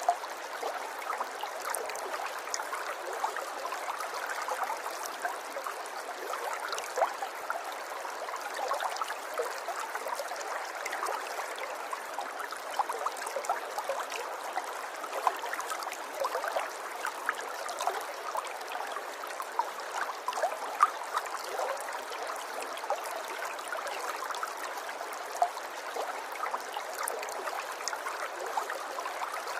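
River water flowing and babbling steadily, with many small irregular splashes and gurgles.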